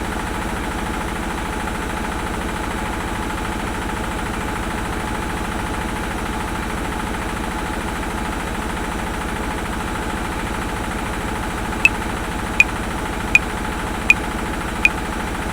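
Washing machine running with a steady mechanical hum. About twelve seconds in, a metronome joins at 80 beats a minute: five sharp, high clicks.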